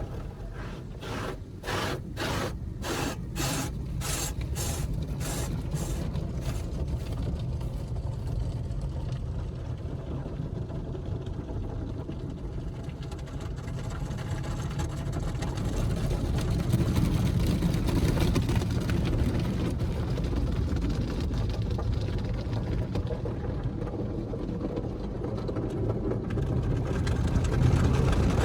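Automatic car wash machinery at work on a car: a regular swishing about twice a second for the first several seconds fades out, then a steady low rumble of machinery and water that swells and eases.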